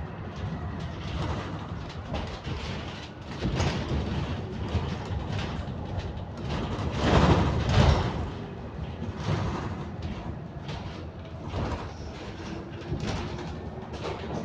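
Cabin noise inside a moving bus: engine and road noise with frequent rattles and knocks, swelling louder about halfway through.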